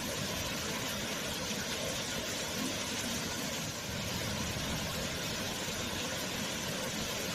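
Waterfall: falling water making a steady, even noise that does not change.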